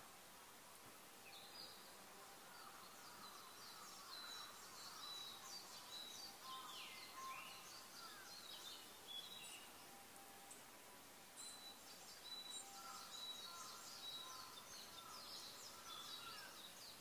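Faint birdsong: many short chirps and trills from several birds over a steady hiss, the chirping busier in the second half.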